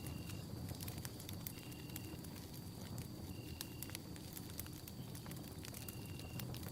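Campfire burning, with frequent sharp crackles and pops over a steady low rumble. A faint short, high chirp repeats about every two seconds in the background.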